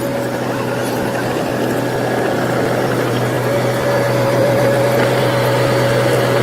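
Heavy earthmoving machine's engine running steadily at an even speed: a constant low drone with a higher whine over it.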